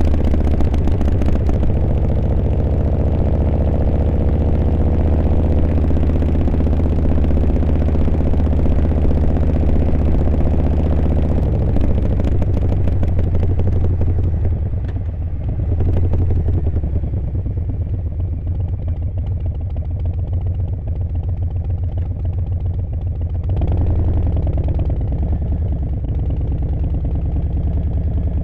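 Harley-Davidson Milwaukee-Eight V-twin motorcycle engine running with a deep, steady note. The engine sound changes about twelve seconds in and again near the end.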